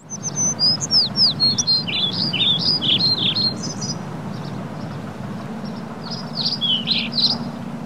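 Birds singing and chirping: a busy run of quick downward-sliding whistles, thinning out in the middle and picking up again near the end, over a steady low background noise.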